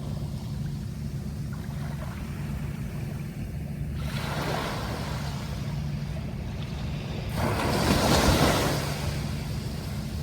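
Sea waves washing in twice over a steady low rumble, the second wave louder and peaking a couple of seconds before the end.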